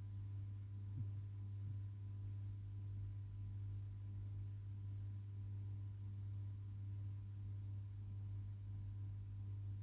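A steady low hum, one unchanging low tone with fainter higher overtones.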